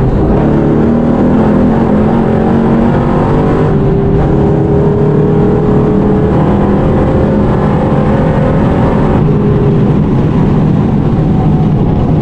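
Supercharged LS7 V8 of a race-built VF Holden Commodore at full throttle, heard from inside the cabin, its pitch rising slowly. The sound changes about four seconds in, and again about nine seconds in, where its higher part drops away.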